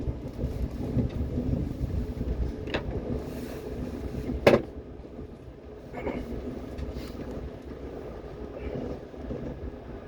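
Running noise of a high-speed train heard from inside the passenger cabin, a steady low rumble, with a few sharp knocks and rattles; the loudest knock comes about halfway through.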